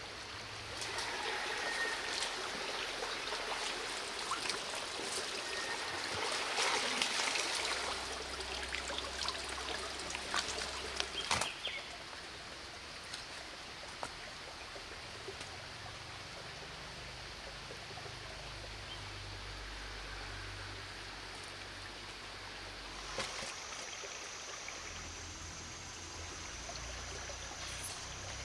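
Water running and trickling, a steady rushing with scattered small splashes and clicks. A steady high-pitched whine joins it near the end.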